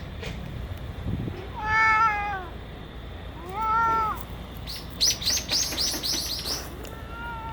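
A domestic cat meowing: two short arched meows a couple of seconds apart, then a third, falling meow starting near the end. Between them comes a quick run of about ten sharp, high ticks.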